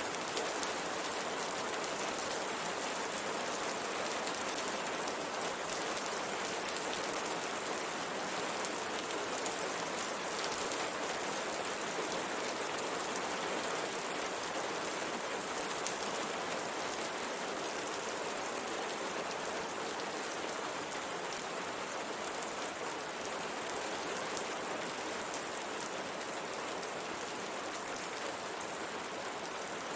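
Steady rain pattering on window glass, an even hiss of many drops with faint individual taps.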